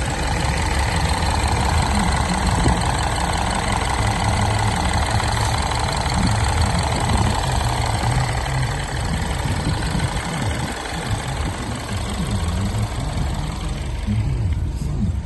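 2015 Mini Countryman engine running steadily at idle, with a dense low rumble and a mid-range whir that thins out near the end.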